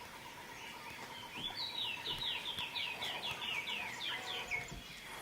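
A bird singing a quick run of about a dozen short, downward-sliding whistled notes, about four a second, starting about a second and a half in. A faint steady high tone runs underneath.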